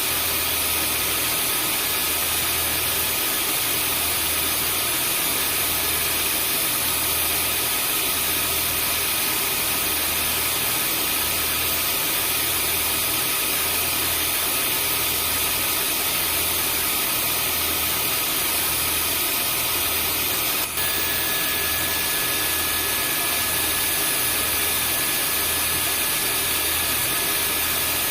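Vacuum cleaner running steadily as white noise, a continuous rushing hum with a low throb that pulses about once a second. About two-thirds of the way through there is a brief click, after which a faint high whine joins.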